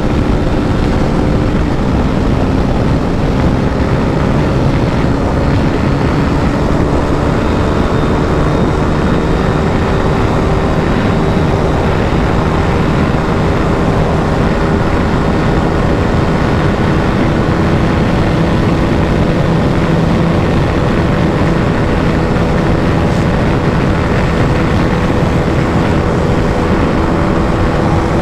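KTM RC 390's single-cylinder engine pulling hard in fifth gear at high speed, its note rising slowly and steadily as the bike gains speed, over a heavy rush of wind noise.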